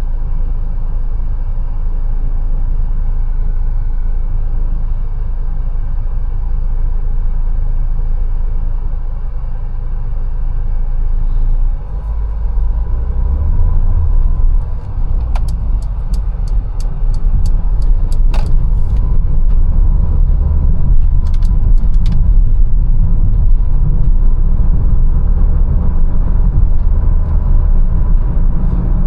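Mercedes-Benz A180 driving: a steady low rumble of engine and road that grows louder about twelve seconds in. Around the middle comes a quick run of about ten sharp ticks, then two more shortly after.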